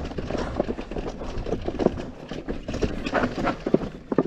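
Intense Tazer Pro e-mountain bike clattering down a rough, rocky trail: irregular knocks and rattles from tyres, chain and frame over a low rumble.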